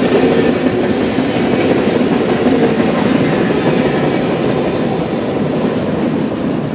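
Train cars rolling past on the track, a steady rumble with a few wheel clacks over the rail joints, slowly growing quieter toward the end.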